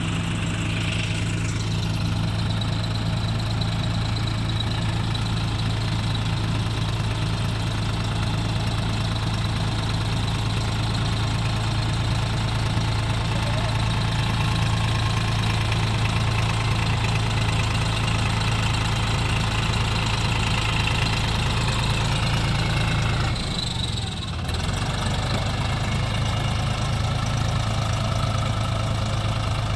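Diesel engine of a farm machine running steadily at a constant speed, with a brief dip in sound about three quarters of the way through.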